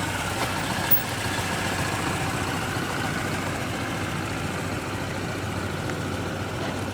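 Motor vehicle engine idling steadily with a low, even hum.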